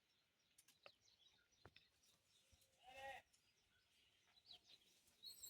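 Near silence with a few faint clicks and one short, faint animal call about three seconds in. A faint high chirp comes near the end.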